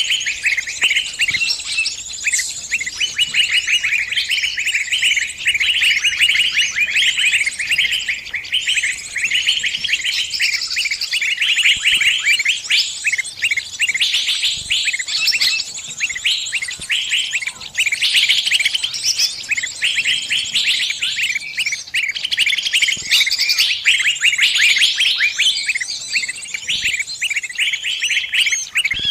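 Small songbird giving distress calls, as a bird caught or pinched and calling its flock for help: a dense, unbroken stream of rapid high-pitched chirps and twitters.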